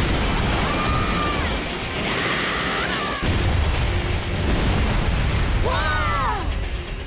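Cartoon battle sound effects: a continuous loud rumbling blast with booms, over background music. A short vocal exclamation comes near the end.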